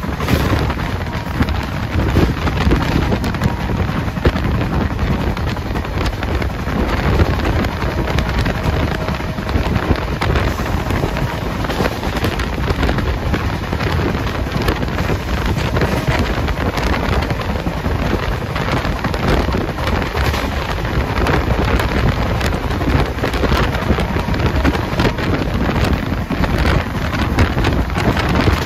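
Express train running at high speed, recorded from an open window or door: a loud, steady rush of wind over the microphone mixed with the rumble and clatter of the wheels on the rails.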